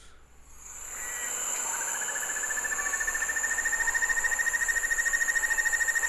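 White-necked puffbird song: a long, rapid, level trill on one pitch that starts about a second and a half in. It plays over a steady, high insect drone in the recording's background.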